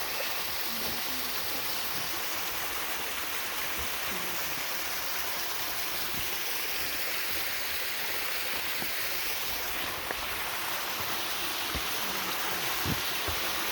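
Steady rushing of a creek flowing over rocks, an even unbroken water noise.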